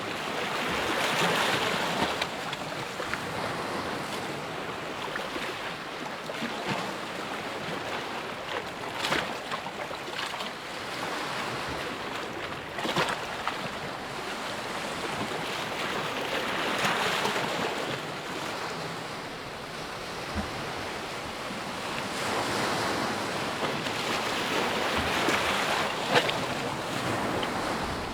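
Sea waves breaking and washing, the rush swelling and falling back over several seconds at a time, with a few sharp splashes.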